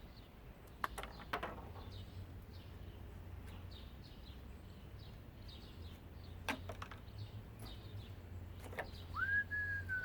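Small birds chirping over and over in the background, with a few sharp clicks and knocks of parts being handled and a steady low hum. Near the end a clear whistle-like tone rises and holds for about a second.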